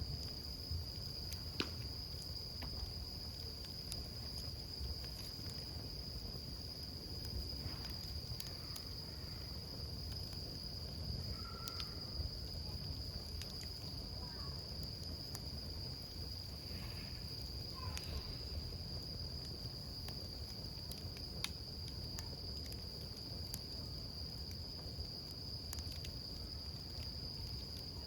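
Wood campfire burning, with scattered sharp crackles and pops over a low rumble. A cricket sings a steady, high-pitched note over it.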